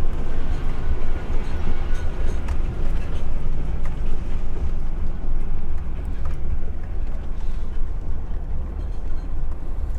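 HGV truck's diesel engine running with a steady low rumble, with a few light clicks and rattles over it.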